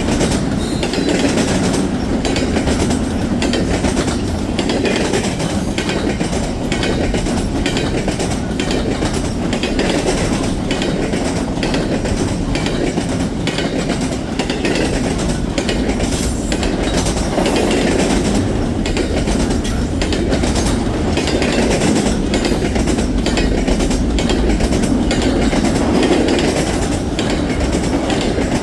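Freight train cars rolling past: a steady rumble with wheels clicking over rail joints.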